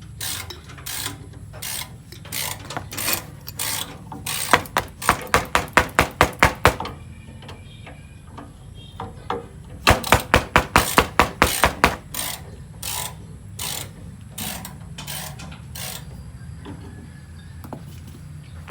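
Hand ratchet wrench clicking as a fastener is worked: scattered single clicks, with two runs of rapid clicking at about seven a second, one around the middle and one a few seconds later.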